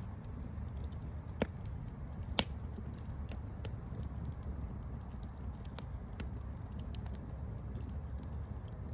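Campfire burning with a steady low rumble and scattered sharp crackles and pops, the two loudest pops about a second and a half and two and a half seconds in.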